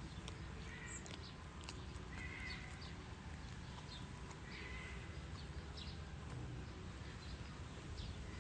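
Tiny lion cubs feeding on chicken meat, giving a few short, high squealing calls.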